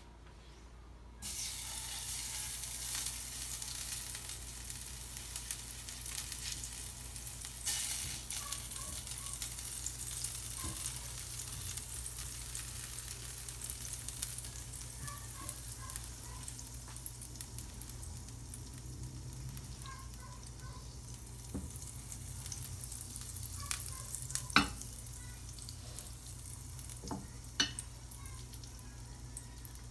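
Chicken sizzling as it pan-fries in butter, the sizzle starting suddenly about a second in and then holding steady, with a few sharp knocks along the way.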